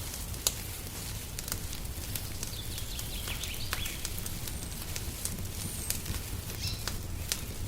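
Wood fire crackling in a fireplace: irregular sharp pops, the loudest about half a second in, over a steady low rumble. Small birds chirp in the background a few times, around the middle and again near the end.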